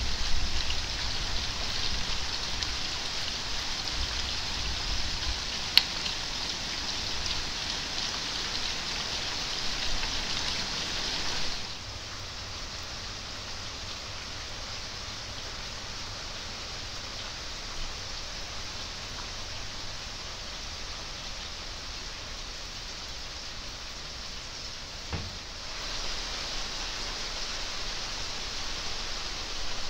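Steady rain falling, an even hiss. It drops to a softer level about twelve seconds in and comes back louder a few seconds before the end, with one sharp tick about six seconds in.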